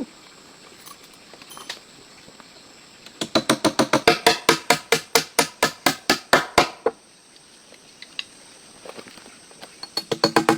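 A rapid run of sharp, hollow wooden knocks, about seven a second, starting a few seconds in and lasting nearly four seconds; a second run begins near the end.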